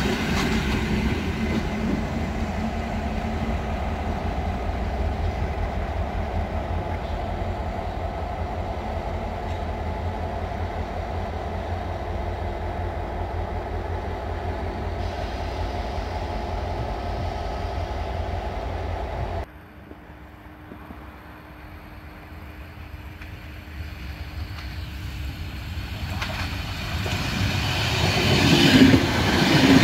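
A train running steadily with a low rumble and a held droning tone; after an abrupt cut, another train is heard approaching, growing louder over several seconds and ending in loud, repeated wheel thumps as it reaches the microphone.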